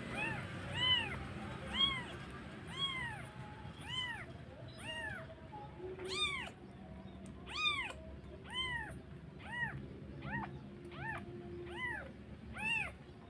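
A cat meowing over and over, high-pitched calls that rise and fall, about one a second, coming a little quicker towards the end.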